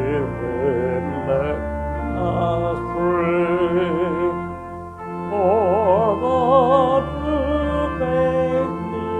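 Hymn sung by voices with vibrato over sustained pipe-organ-style chords, moving from note to note without a break.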